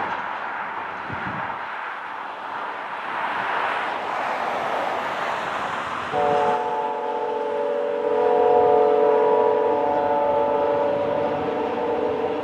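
Freight train of tank cars rolling past steadily. About six seconds in, a locomotive horn comes in suddenly as a long, steady chord of several notes and holds to the end.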